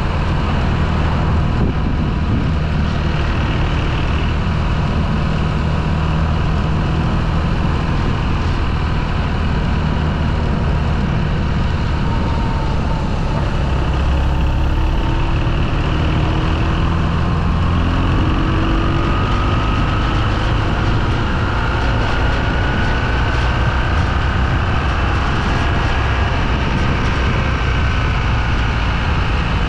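Motorcycle engine running steadily while riding, its pitch drifting slowly up and down with the throttle.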